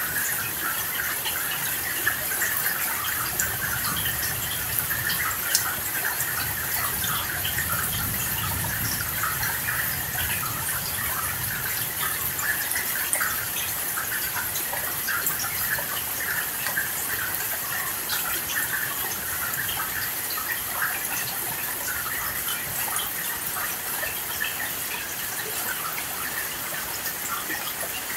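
Steady rain falling: a dense crackling patter of drops over an even hiss. A soft low rumble swells and fades in the first half.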